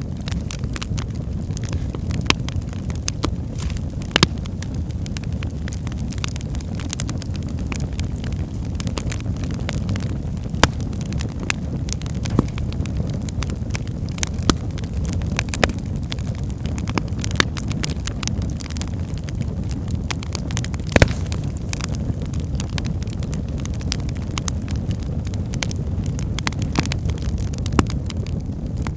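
Wood fire burning in a fireplace: a steady low rumble of the flames with logs crackling and popping at irregular moments, a few pops louder than the rest.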